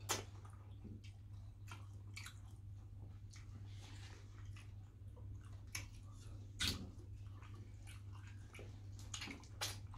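Close-up mouth sounds of people eating fish pepper soup and starch by hand: wet chewing, lip smacks and slurps as scattered short clicks. The sharpest smacks come right at the start, about two-thirds of the way through, and near the end.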